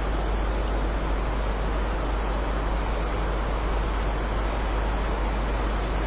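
Steady heavy rain: an even, unbroken hiss with a deep low rumble beneath it.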